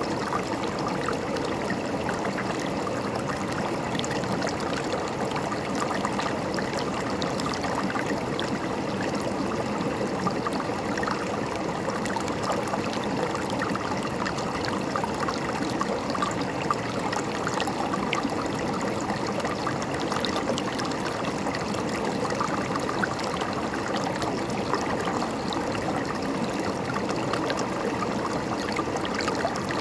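River water running and gurgling steadily over rocks, an even rushing babble with small splashes throughout.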